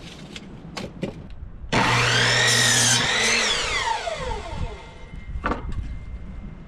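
Electric power tool motor switched on for about a second and a half, then released and spinning down with a falling whine. A few sharp knocks come before it and one after.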